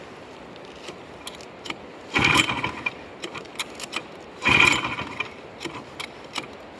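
Two short cranking bursts from a two-wheel-drive motorcycle's engine, each under a second, with scattered clicks and metal rattles between; the engine does not catch.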